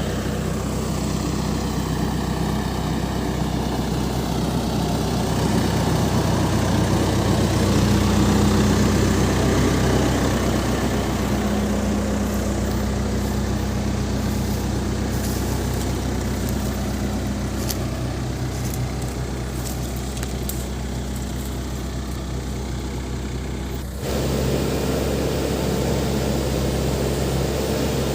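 Backhoe loader's diesel engine running steadily while the machine works, swelling somewhat louder for a few seconds near the start. About three quarters of the way through, the engine note changes abruptly to a different steady pitch.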